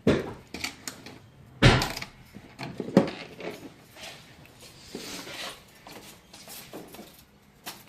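Irregular knocks and clatter of loose tools and parts being picked up, moved and set down, with two louder knocks about two and three seconds in.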